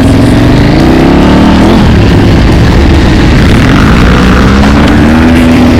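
Trail motorcycle engine running loud and hard, its pitch climbing over the first second or two, dropping, then climbing again near the end as the rider works the throttle, with a constant rush of noise underneath.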